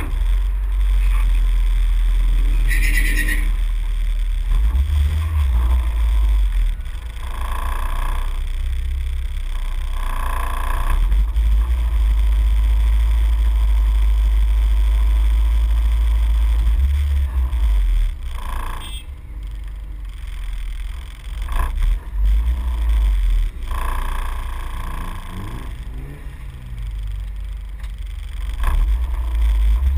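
Honda car's engine idling as the car creeps forward, heard as a heavy low rumble through a camera mounted on the car's body, with a few short swells in pitch along the way.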